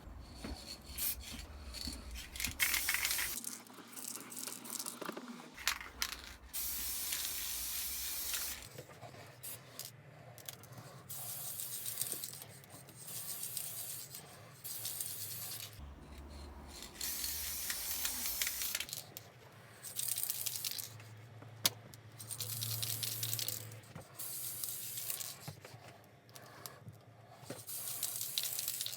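An aerosol spray-paint can hissing in repeated bursts of one to three seconds, with short rattles and clatters in the gaps.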